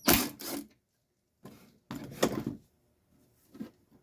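Plastic case of a garage door opener being handled during teardown: two short scraping, knocking bursts about two seconds apart.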